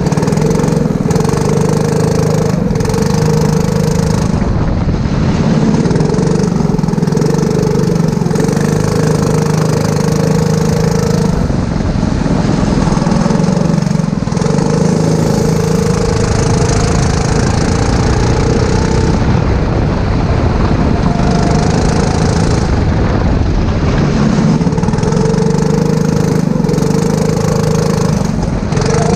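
Four-stroke racing go-kart engine running hard, heard onboard: long stretches on full throttle, eased off briefly a few times, as if for the corners, before pulling again.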